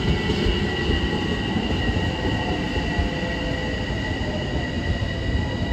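Long Island Rail Road train pulling into the station, a heavy steady rumble of wheels on rails under a steady high-pitched squeal that sets in at the start.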